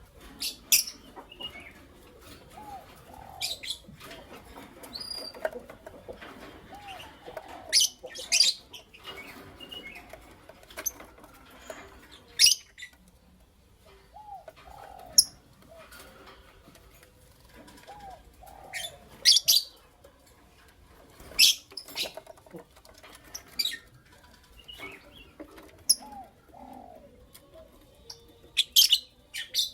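Lovebirds (a creamino and a lutino opaline) giving short, shrill chirps every few seconds, some in quick pairs. Softer, lower curved calls come in between.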